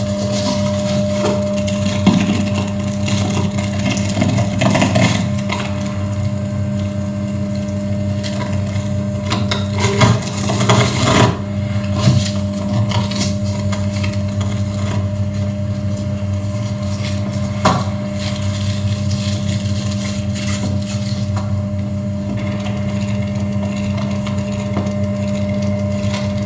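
Electroacoustic noise music played live: a steady low droning hum with a held higher tone, broken by irregular bursts of crackling, scraping noise, the densest near the middle, and a sharp click a little later.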